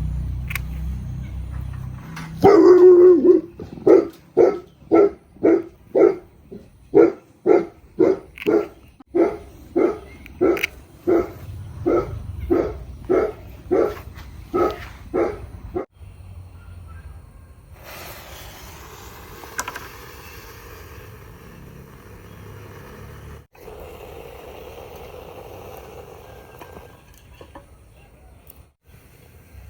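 A dog barking in a long, even run of about two barks a second, lasting some thirteen seconds before it stops.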